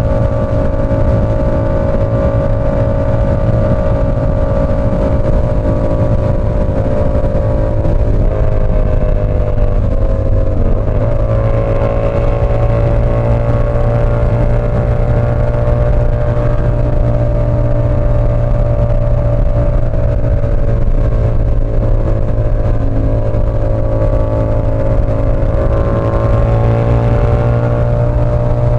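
Yamaha R7's 689 cc parallel-twin engine through an SC Project CR-T aftermarket exhaust, running loud and steady at cruising speed while riding. The pitch holds nearly level, with a brief dip about ten seconds in and a slight easing off around two-thirds of the way through.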